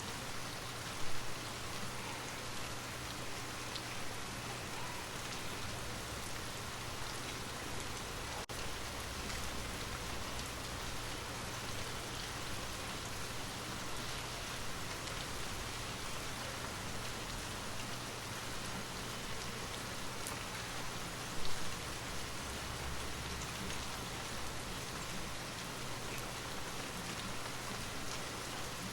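Steady rain falling, an even hiss with no let-up, with two brief louder moments about a second in and about twenty-one seconds in.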